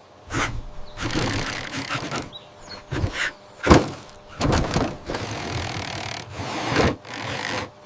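Cartoon sound effects of crashing and rushing debris: a series of thuds and noisy rushes, with one sharp, loud impact a little before the middle.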